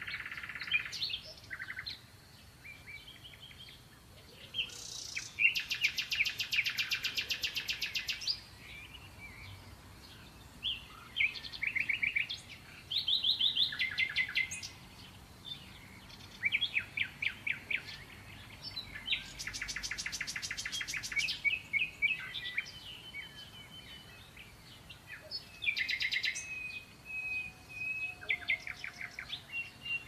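Songbirds chirping and singing, with varied short calls and two long, fast trills, one about five seconds in and one near twenty seconds.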